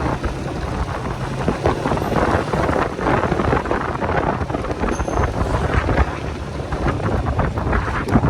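Wind buffeting a helmet or body-mounted microphone over the running engine of a motorcycle being ridden.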